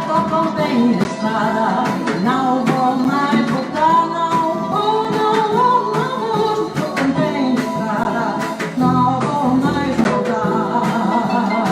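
Live small jazz band with harp playing a Brazilian jazz tune, plucked strings to the fore and a voice singing over them.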